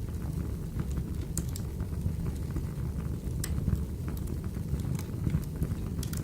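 Wood fire crackling: a steady low rumble of burning logs with a few sharp pops scattered through.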